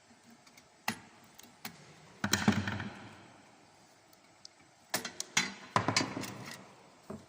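Metal parts of a mechanical bird-scaring cannon clinking and rattling as they are handled: a few single clicks, with two longer clusters of rattling and clinking about two seconds in and around five to six seconds in, some with a short ring.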